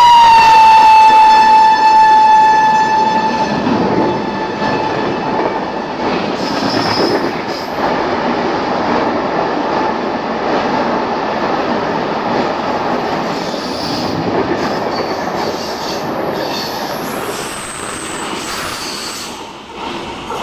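A passing express train's locomotive horn blares, its pitch dropping as the locomotive goes by, and dies away after about three seconds. Then the coaches roll past with a steady rumble and wheel clatter, slowly fading as the train draws away.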